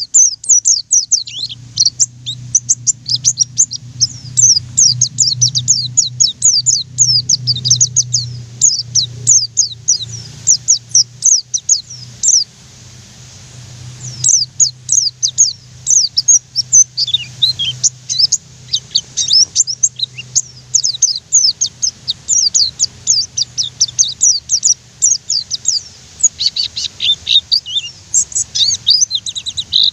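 White-eye (pleci) singing a long, fast run of short high chirping notes, with a break of about a second and a half just past the middle. A faint low hum runs underneath.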